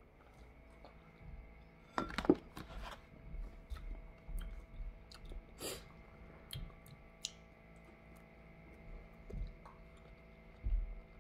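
A person chewing fresh strawberries close to the microphone: irregular soft, wet mouth sounds and small clicks, loudest about two seconds in.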